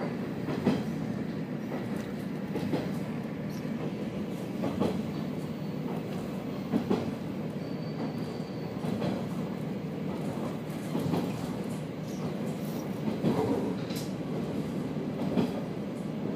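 Inside a KiHa 47 diesel railcar under way: a steady running rumble, with wheels clicking over rail joints about every two seconds.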